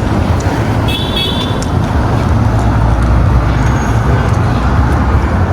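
Steady rumble of a car on the road, with a brief high-pitched tone about a second in.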